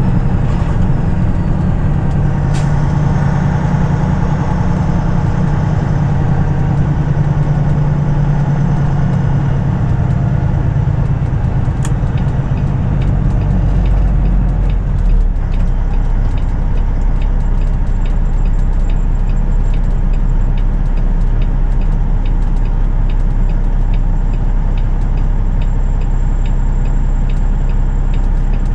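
Peterbilt 579 semi truck's diesel engine running steadily. A regular light ticking, about three ticks every two seconds, comes in about halfway through.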